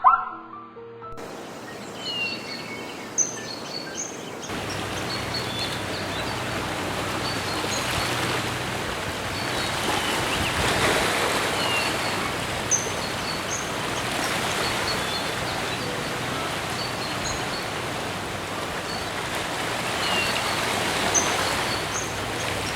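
A steady rush of flowing water, with small birds chirping in short high calls again and again over it.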